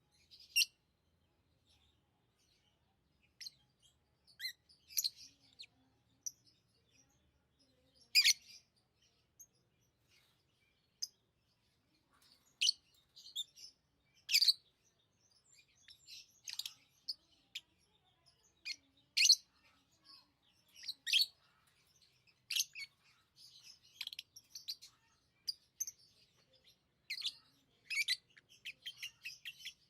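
Pet lovebirds chirping: short, sharp, high calls, scattered at first and coming more often in the second half.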